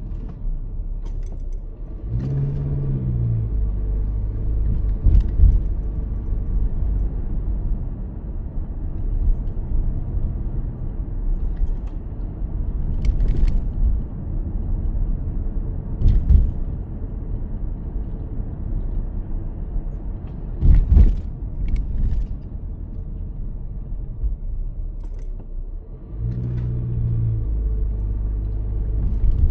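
Car driving, heard from inside: a steady low road and engine rumble, with the engine note rising as the car accelerates a couple of seconds in and again near the end. Occasional knocks and rattles break through.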